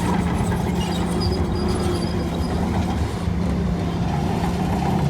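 Heavy diesel engine of earthmoving machinery running steadily, with a brief dip about three seconds in.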